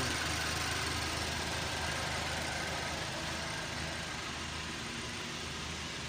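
Range Rover Evoque engine idling steadily while it runs on an on-car injector cleaning apparatus, with cleaner fed into its fuel supply to clear the injectors.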